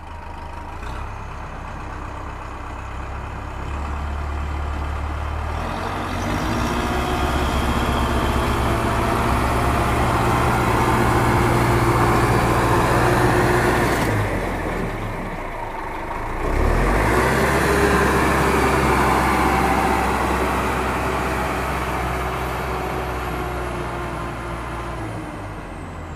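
Heavy vehicle engine running with a steady low rumble. It builds over the first few seconds, drops away briefly about halfway through, then picks up again.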